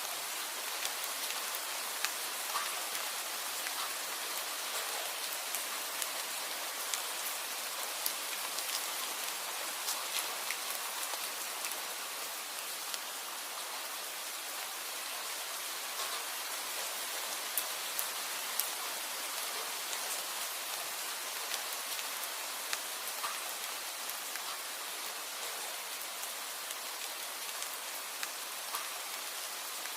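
Steady rain falling, an even hiss with many scattered individual drops ticking sharply on a surface.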